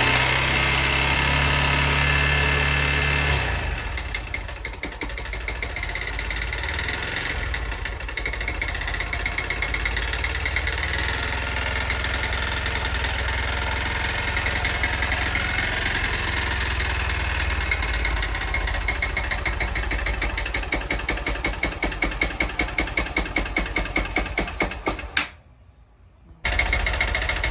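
Honda Bros 160 single-cylinder engine running with a fast, rhythmic knock. It is louder for the first few seconds, then settles lower. The owner suspects the piston striking the cylinder head or a worn connecting rod from high mileage. The sound cuts out for about a second near the end.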